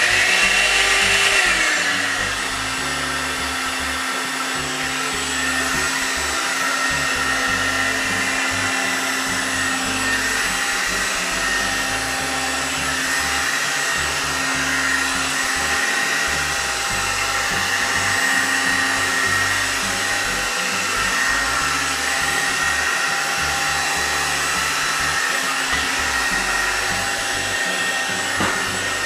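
Blow-dryer hot air brush running on its medium setting: a steady blowing hiss with a motor whine, the whine settling a little lower in pitch over the first two seconds.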